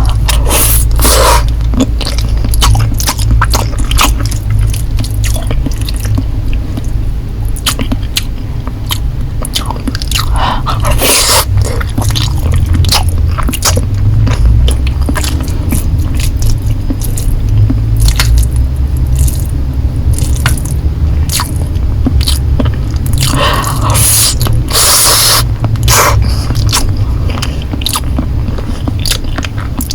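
Close-miked eating of Korean noodles: wet chewing and biting with many sharp mouth clicks, broken by a few longer noisy bursts about a second in, around eleven seconds and again at about twenty-four seconds, over a steady low rumble.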